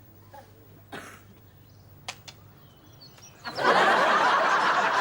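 A few faint knocks, then about three and a half seconds in a sitcom studio audience bursts into loud, sustained laughter.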